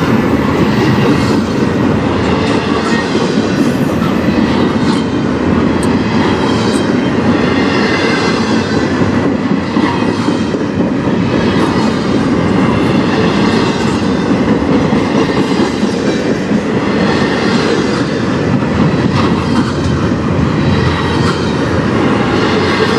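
Freight train of double-stack intermodal well cars rolling past, a steady rumble and clatter of steel wheels on rail.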